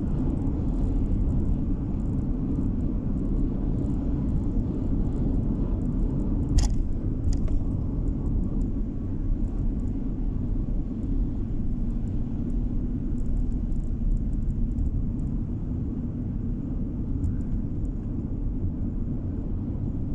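A car driving along the road: steady low rumble of tyres and engine, with two short knocks about a third of the way through.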